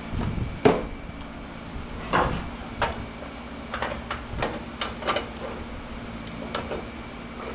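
Irregular metal clanks and knocks from scrap light-ballast transformers being handled, about a dozen hits, the loudest about a second in, over a steady machine hum.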